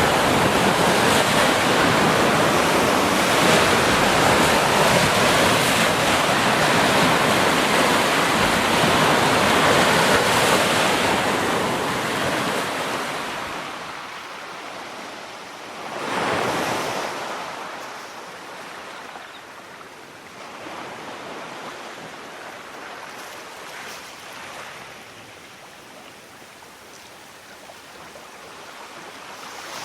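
Sea waves breaking on the shore: a long, loud wash of surf that fades away about halfway through, one more wave surging in and drawing back, then quieter swells.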